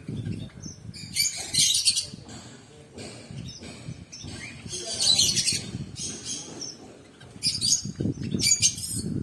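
Small pet birds chirping in three busy bursts of high calls, with a low rumbling noise underneath.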